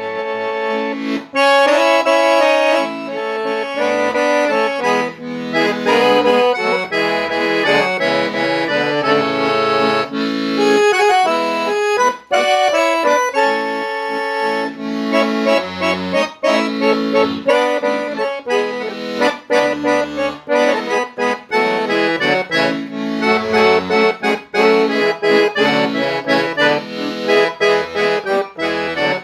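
Accordion playing a Brazilian caipira (sertanejo raiz) tune, a continuous melody with chords over short bass notes from the left-hand buttons.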